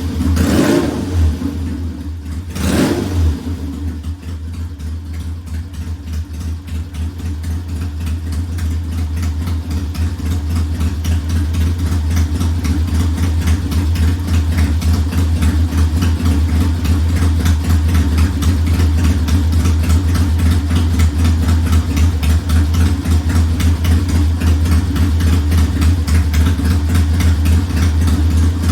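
1969 Triumph T100's 500 cc parallel-twin engine running: blipped a few times in the first three seconds, then settling into steady running that grows gradually louder.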